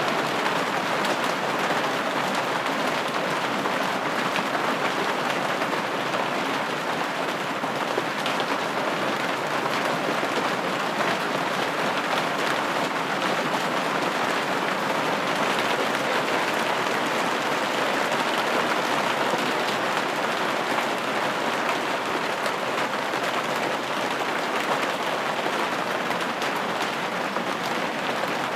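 Steady rain pattering on a window pane, an even hiss of drops with faint fine taps and no change in strength.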